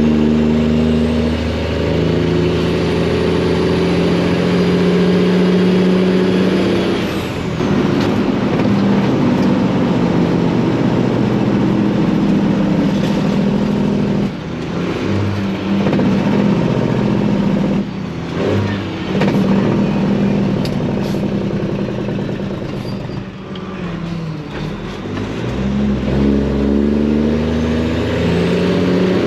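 Freightliner semi truck's Detroit diesel engine running loud through its pipes under acceleration. The engine note climbs, drops and climbs again several times, with short dips in level between, as the truck works through the gears.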